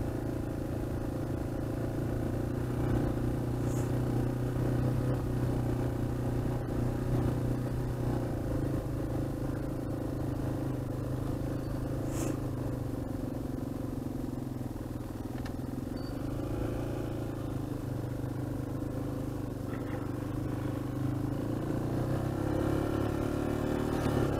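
Dual-sport motorcycle engine running at a steady cruise on a dirt road, heard from the rider's own bike. The engine note eases off a little past the middle and picks up again near the end.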